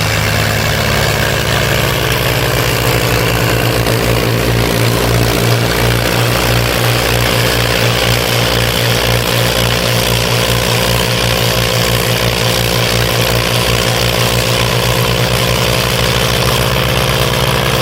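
Diesel tractor engine running steadily under load, pulling a harrow, with an even low throb.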